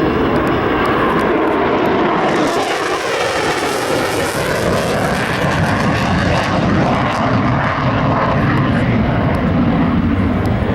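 Jet noise of an F-35A Lightning II's single Pratt & Whitney F135 afterburning turbofan as the jet flies past. The tone sweeps and the hiss brightens about two to four seconds in, then settles into a steady rumble.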